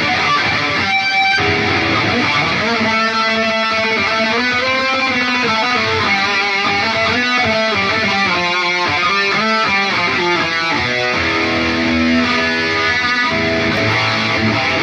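Electric guitar played through an Atomic AmpliFire amp-modeling pedal and heard through cheap computer speakers: a continuous run of changing melodic lead notes in a distorted tone.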